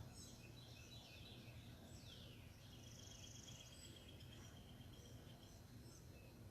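Faint outdoor birdsong over a low steady hum. About two seconds in comes a falling call, followed by a rapid trill of repeated high notes lasting about three seconds.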